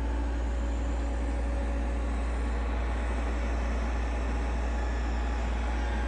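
Several robot vacuums running at once: a steady whir of motors and brushes over a constant low hum.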